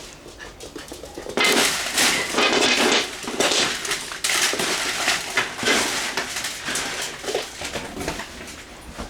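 A freshly bathed dog in a post-bath frenzy, scrabbling, rubbing and thrashing about: a dense run of rustling and quick scuffs that starts about a second and a half in, is loudest over the next couple of seconds, and eases off toward the end.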